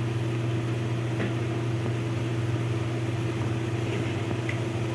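A steady low machine hum with a light hiss, unchanging throughout.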